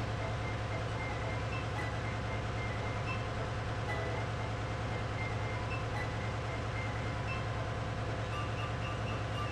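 Ship's engine-room machinery running steadily: an even, low, pulsing diesel drone.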